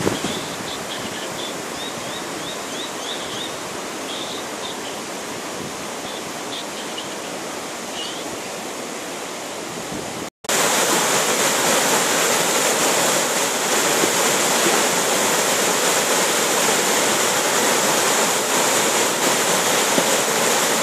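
Floodwater rushing down a swollen creek, a steady rush of water. A series of short high chirps sounds over it in the first half; about halfway through a cut brings the water in louder.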